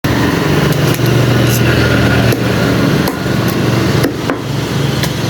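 A cleaver chopping chicken pieces, with about ten sharp, irregularly spaced chops, over a steady engine-like motor hum.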